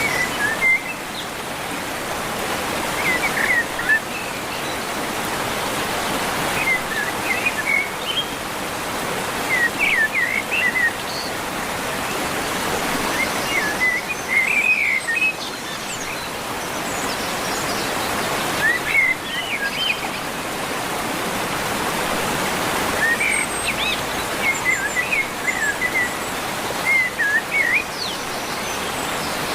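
Small birds chirping in short bursts of quick, up-and-down notes every few seconds, over a steady rushing noise.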